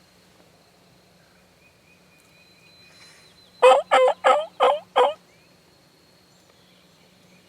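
A series of five loud turkey yelps in quick succession, about a third of a second apart, starting about three and a half seconds in and lasting about a second and a half in all.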